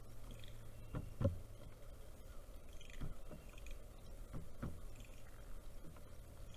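A pileated woodpecker pecking at a feeder: about five irregular dull knocks, two close together about a second in and the rest spread through the middle. Faint short bird chirps sound in the background.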